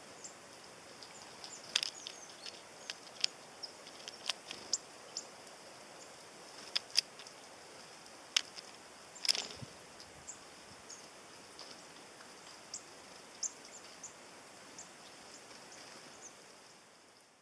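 Tits feeding at a sunflower-seed feeder: scattered sharp taps and clicks from the birds at the feeder, with many short high chirps, over a steady faint hiss. It fades out near the end.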